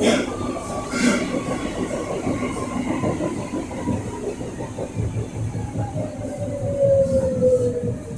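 Berlin U-Bahn H95 train running, with a steady rumble and a whine that falls steadily in pitch, plus sharp clicks at the start and about a second in.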